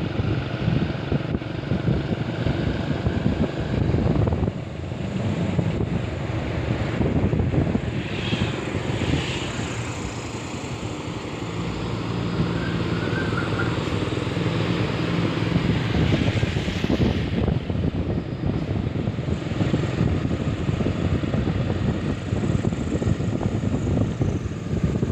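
Truck engine running with a steady low rumble and road noise, easing slightly in the middle and building again.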